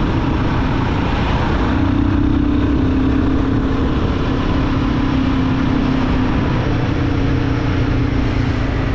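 Royal Enfield Guerilla 450's single-cylinder engine running at a steady pitch while riding in city traffic, under a steady rush of road and air noise.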